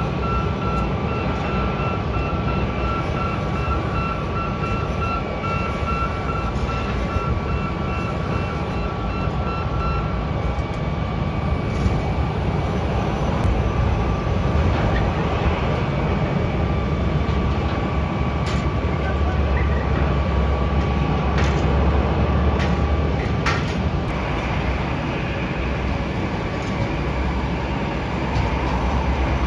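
Airport apron noise: jet aircraft engines running with a steady whine over a low rumble. A ground vehicle's rapid beeping sounds through the first third, then stops.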